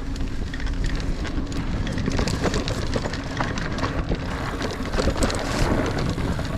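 Niner Air 9 RDO 29er mountain bike riding over dirt singletrack: the knobby cross-country tyres roll with a steady rumble, and frequent small clicks and rattles come as the bike goes over bumps.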